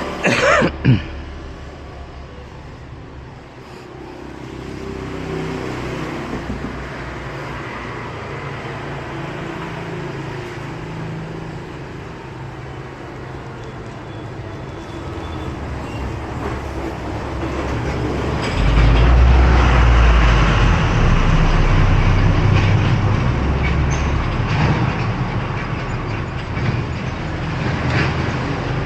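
Steady rumble of a vehicle in motion, getting louder about two-thirds of the way in. A short falling tone sounds in the first second.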